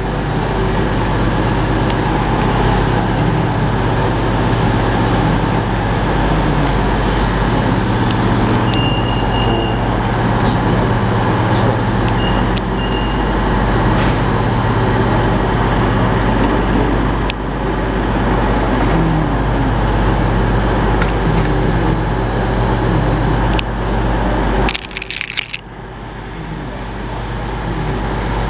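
Train running at a station platform: a steady low drone and rumble. Thin high squealing tones come and go through the middle, and there is a brief sharp disturbance with a dip in level near the end.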